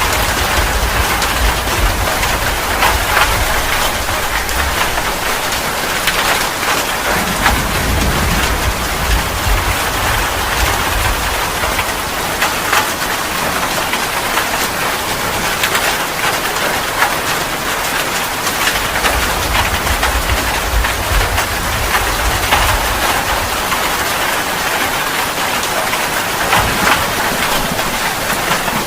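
Heavy rain falling steadily in a dense hiss, with low thunder rumbling up and fading away a few times.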